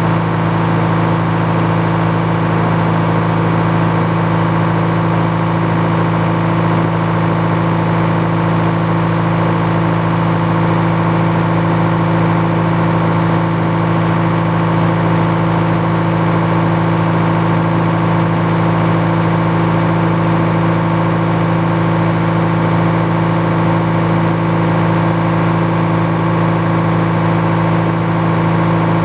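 Engine powering a Frick sawmill running at a steady speed, its tone and loudness unchanged throughout, with no sound of a cut starting or stopping.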